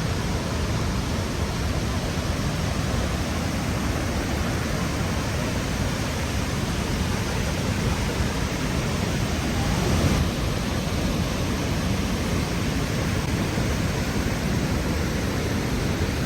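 The Rhine Falls' waterfall rushing steadily: an even noise from a deep rumble up to a hiss, with no breaks.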